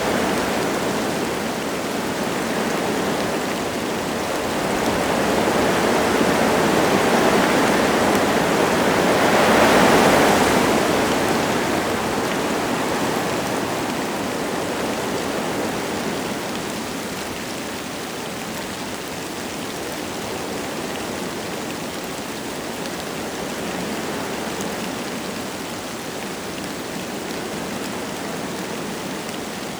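Wind blowing through forest trees, with light rain falling. A gust swells to a peak about ten seconds in, then eases to a steadier, lower rush.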